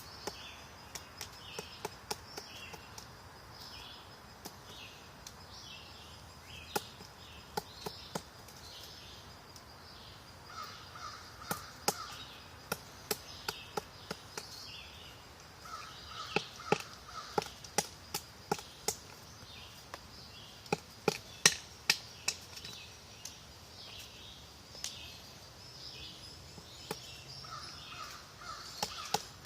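Woodpecker pecking into wood: sharp, irregular taps, single or in quick twos and threes, some much louder than others. Other birds call in the background, one calling over and over in a higher pitch and another giving short series of three or four harsh calls, like cawing, three times.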